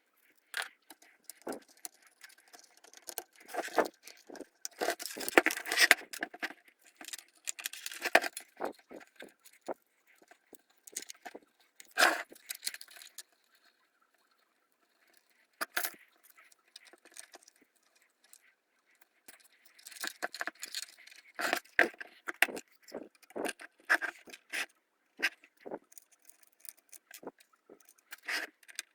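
Irregular clicks, taps and short scrapes of small hard parts being handled, with quiet gaps between busier stretches.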